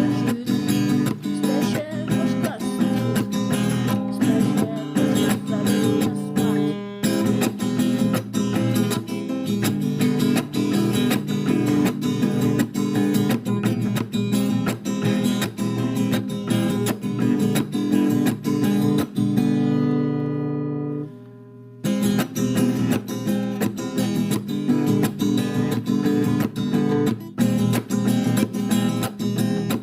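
Acoustic guitar strumming chords in a steady rhythm, in an instrumental passage of a song. About twenty seconds in, one chord is left to ring and fade, followed by a brief near-stop, and the strumming picks up again.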